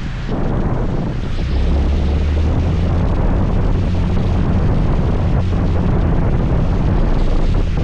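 Wind buffeting the microphone on a moving scooter, over the scooter's engine running with a low hum that grows stronger about a second and a half in.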